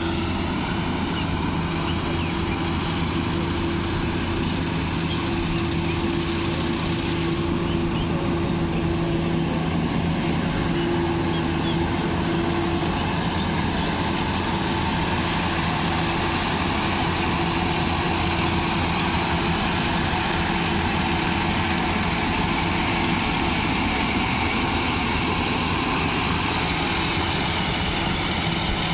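An engine running steadily at constant speed, a continuous mechanical hum with no breaks.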